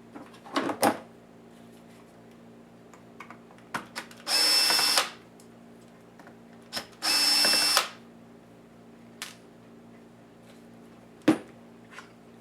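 Small electric screwdriver running in two short spurts, each under a second, about three seconds apart, undoing laptop case screws. Sharp clicks and knocks of handling the laptop and its screws come before and after.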